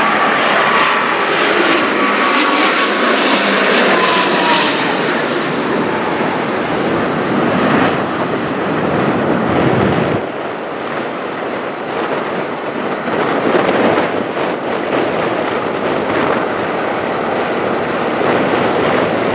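De Havilland Canada Dash 8-400 turboprop, with Pratt & Whitney PW150A engines, flying over loud. A high whine from its engines and propellers drops in pitch over the first few seconds as it passes, over a steady rushing roar that eases briefly about halfway through.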